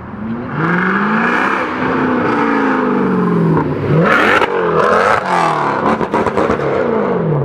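A performance car's engine revved hard several times, its pitch rising and falling with each blip, with one loud surge about four seconds in and sharp exhaust crackles after it.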